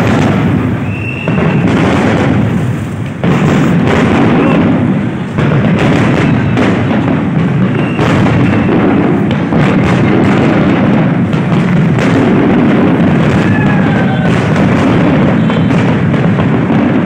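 Fireworks display: a dense, continuous barrage of shell bursts and crackle over a heavy low rumble, with the bangs overlapping almost without pause.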